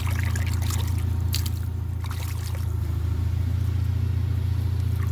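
A steady low motor drone, with a few short splashes and trickles of water over it.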